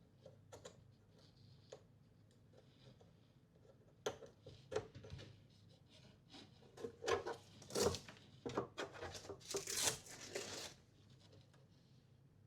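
Handling noises: scattered clicks, then a few seconds of busier clicking, rustling and rubbing that stops about two seconds before the end.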